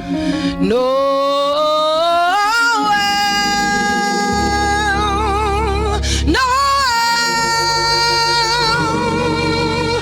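A woman sings solo in gospel style over low held instrumental notes. She holds long notes with wide vibrato and scoops up into them at the start and again about six seconds in.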